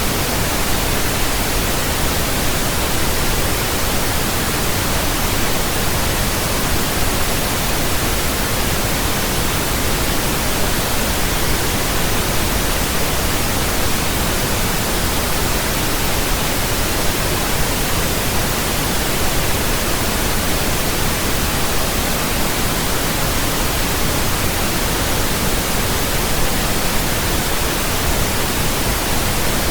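Steady pink noise: an even, unbroken hiss spread across the whole range from bass to treble, with no changes or events.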